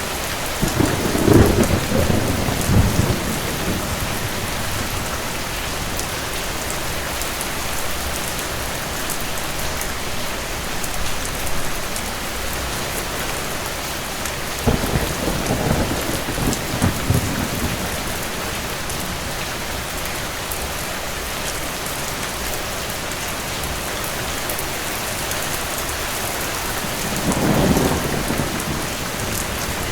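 Steady rain falling, with three rolls of distant thunder: low rumbles of two to three seconds each, one right at the start, one about halfway through and one near the end.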